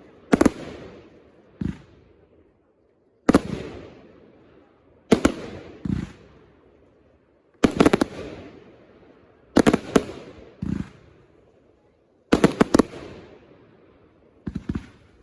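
Consumer fireworks going off: a series of loud, sharp bangs about every two seconds, several of them double or triple cracks. Some are followed about a second later by a lower, shorter boom.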